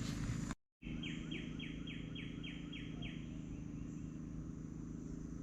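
Outdoor ambience: a songbird sings a quick run of about eight repeated downslurred notes, over a steady high insect drone and a steady low hum.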